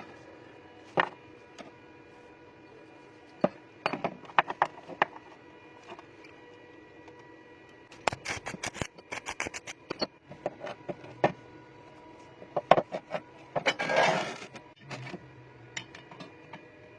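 Metal parts and tools being handled and knocked together: scattered clinks and knocks, a quick run of clicks about halfway through, and a short hissing burst near the end.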